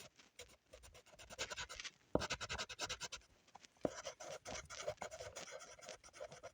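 A drawing tool scratching on paper in fast back-and-forth strokes, coloring in an area in several runs with short pauses between them.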